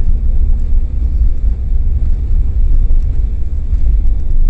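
Steady low rumble of a car's engine and tyres heard from inside the moving vehicle.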